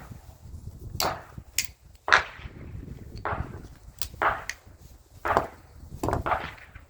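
A series of sharp, irregular knocks, about a dozen, each with a brief ring.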